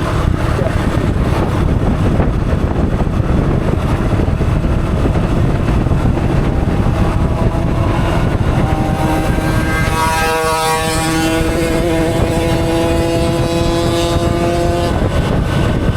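Motorcycle on the move: wind noise on the microphone and the engine running. A steady engine note comes up out of the noise about halfway through and cuts off shortly before the end.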